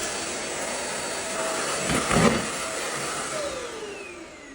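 Deerma vacuum cleaner running with a steady rush of air and motor, with a couple of knocks about two seconds in. From about three seconds in its motor winds down with a falling whine as it is switched off.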